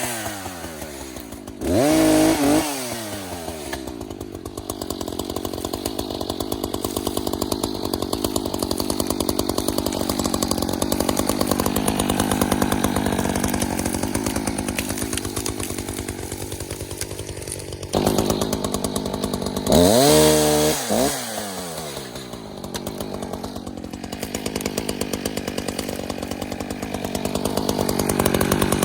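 Echo CS-590 two-stroke chainsaw running throughout. It revs up high and drops back twice, about two seconds in and again around twenty seconds. Between the revs it runs steadily under load, cutting into the dead downed tree.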